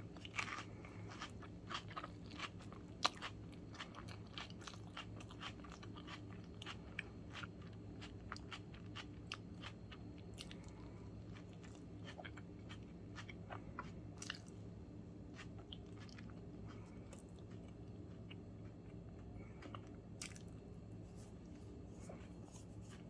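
Close-miked eating of a sandwich: crunchy bites and chewing clicks, busy in the first half and thinning out later, with one sharp louder crunch about three seconds in. A low steady hum runs underneath.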